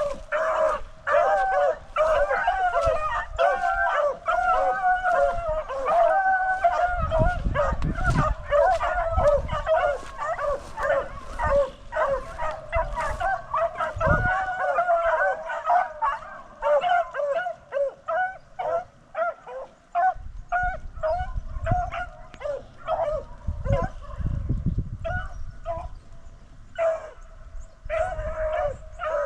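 A pack of beagles baying on a rabbit's track, with long drawn bawls at first and shorter choppy barks from about halfway through. A few low rumbles sound under them.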